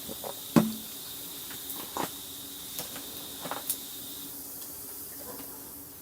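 Firewood crackling in a campfire: a handful of sharp, irregular pops over a steady hiss, the loudest about half a second in.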